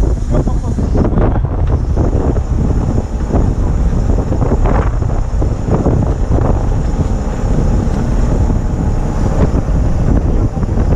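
Strong gusting wind buffeting the microphone: a loud, continuous rumble that swells and dips with the gusts.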